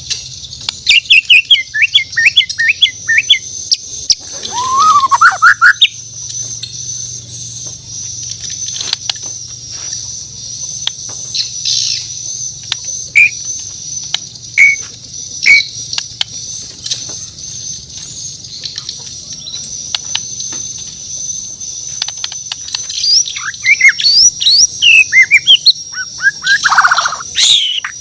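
Bornean white-rumped shama (murai batu) singing in bursts of clear whistled notes and rising glides. The song is busiest in the first few seconds and again near the end, with scattered single notes in between. A steady high-pitched whine runs beneath it.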